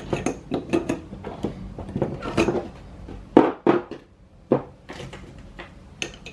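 Skateboard wheels and bearings being handled and pressed onto the truck axle: an uneven run of clicks and knocks, with a few louder knocks a little past the middle.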